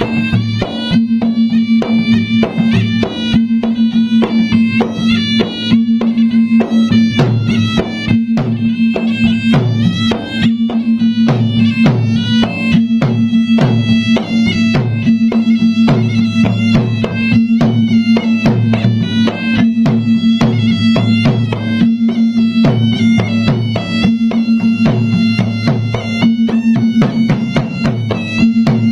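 Traditional Maros gendang drum ensemble playing: rapid, dense drum strokes under a reedy wind melody that moves between held notes, with a steady low tone sounding throughout.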